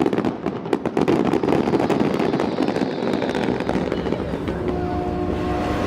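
A fireworks display: a rapid string of sharp cracks and bangs over a dense crackling rumble in the first two seconds, thinning into a steady rumble. A steady hum comes in near the end.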